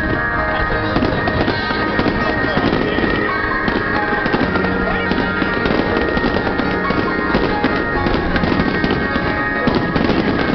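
Fireworks bursting and crackling in quick succession, many small pops rather than one big bang, with music playing underneath.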